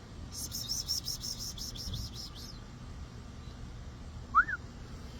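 A songbird singing a fast trill of about a dozen high chirps lasting about two seconds, then a single short call near the end.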